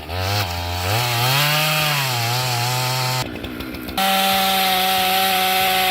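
Chainsaw engine running while cutting, its pitch rising and sagging for about three seconds, then a short break and a steadier, higher pitch.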